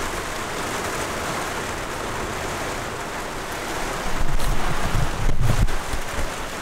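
Heavy rain pouring steadily onto a campervan's roof and windscreen, heard from inside as an even hiss. About four seconds in, louder low buffeting on the microphone for a couple of seconds.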